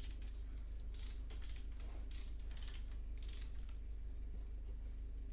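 Sharp metallic clicks and pings from the hoist rigging straining under the weight of a big-block engine, several in the first three and a half seconds and then stopping, over a steady low hum.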